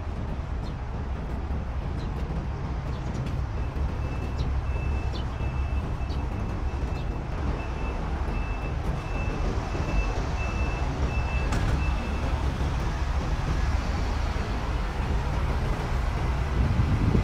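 Steady urban traffic rumble, with a high electronic beep repeating a few times a second for several seconds before it stops.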